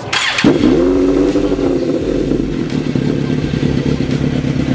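A short, loud noisy burst, then a motorcycle engine running with a steady note, its pitch dipping briefly just after it comes in and then holding level.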